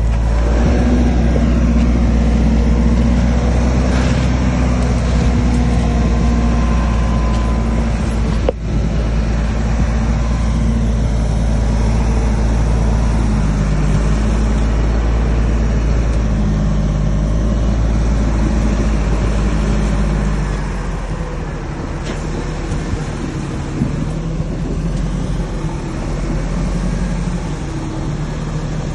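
Heavy earthmoving machine's diesel engine running steadily, with a single sharp knock about eight seconds in; the engine sound drops somewhat about twenty seconds in.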